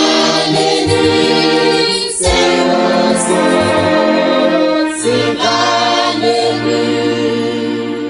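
Church choir singing in harmony, holding long chords with two short breaks between phrases.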